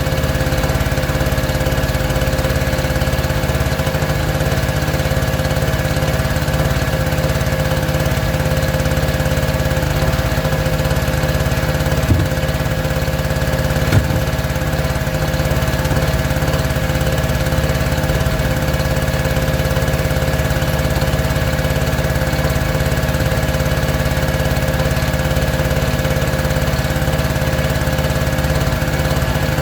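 A small engine running steadily at a constant speed, with two sharp knocks a couple of seconds apart about halfway through.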